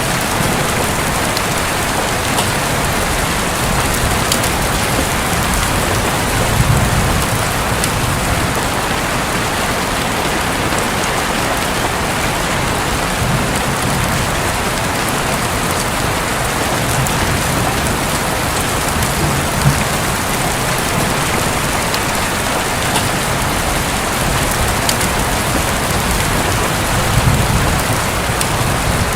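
Steady heavy rain on a roof, a dense even hiss with scattered sharp drop hits. Low rumbles of distant thunder swell a few times, most clearly about a quarter of the way in and near the end.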